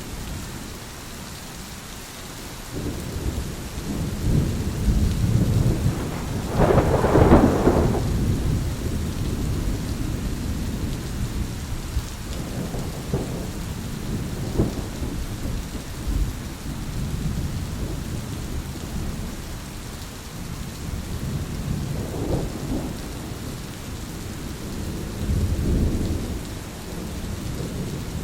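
Thunderstorm: steady rain with rolling thunder, the loudest crack and rumble coming about seven seconds in, with further rumbles later.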